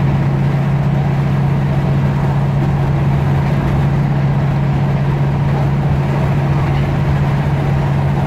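Inside the carriage of a moving Class 156 Super Sprinter diesel multiple unit: a steady low drone from its underfloor diesel engine over the constant rumble of the wheels on the track.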